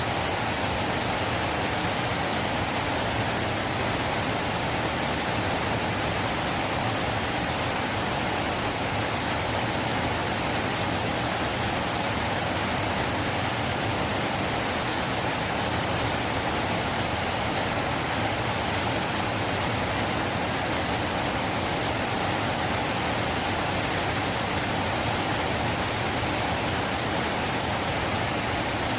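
River water flowing in a steady rush, with no changes or distinct splashes.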